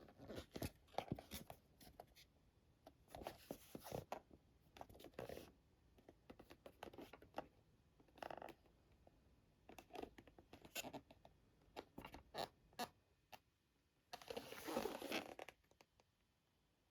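Toy packaging being handled: scattered soft clicks and crinkling plastic rustles, with one longer rustle lasting about a second and a half near the end.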